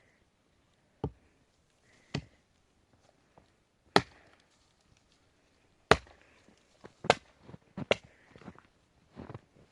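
A series of sharp chopping blows, about six strong strikes at uneven intervals of one to two seconds, with a few lighter knocks between them.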